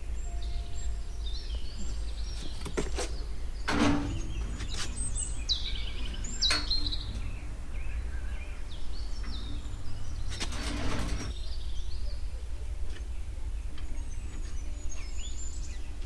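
Wild birds chirping and calling, many short scattered calls over a steady low rumble, with a few brief noisy rustles or clatters about a quarter, two fifths and two thirds of the way through.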